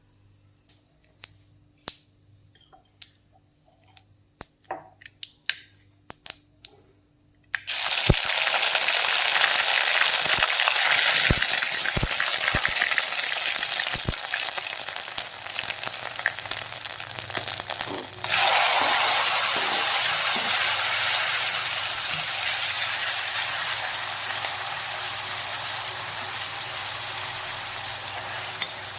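A few faint clinks and taps, then about seven seconds in a loud sizzle starts suddenly, like food dropped into hot oil in a pan. It slowly eases off, surges again just past halfway, and settles into a steady frying sizzle.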